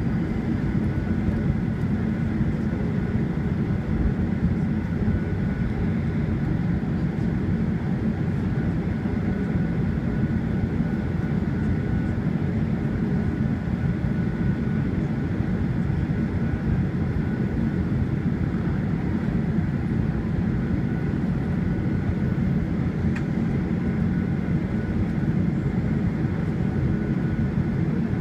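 Steady low rumble in the cabin of a Boeing 737-800 taxiing after landing, its CFM56 engines at idle, with a faint steady whine over it.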